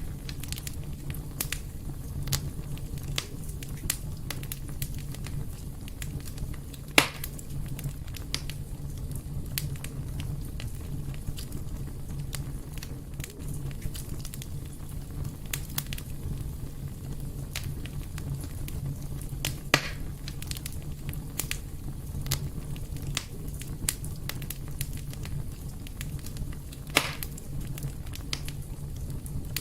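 Wood fire burning in a fireplace: a steady low rumble with scattered crackles and three louder pops.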